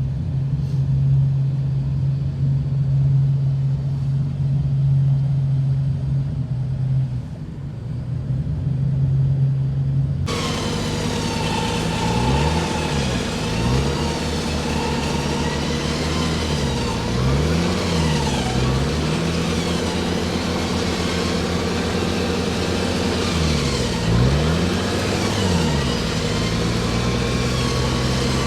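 Off-road 4x4 engine running steadily. About ten seconds in, the sound changes abruptly and the engine revs repeatedly fall and rise again, with a fainter higher whine wavering above.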